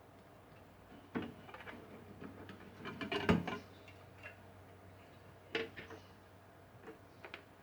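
Scattered light clicks and knocks of small parts and tools being handled, with a busier cluster about three seconds in.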